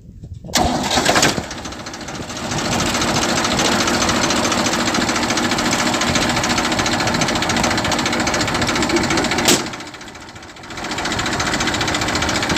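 Diesel tractor engine running with a fast, even knocking beat. A single sharp bang comes about nine and a half seconds in, and the engine noise drops for about a second before it returns.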